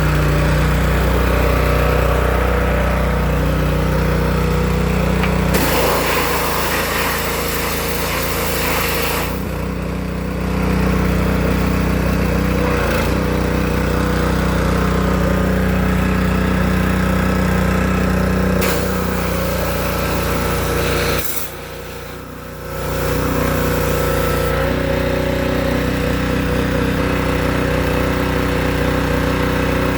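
Gas pressure washer's small engine running steadily, with the hiss of the high-pressure water spray coming and going over it.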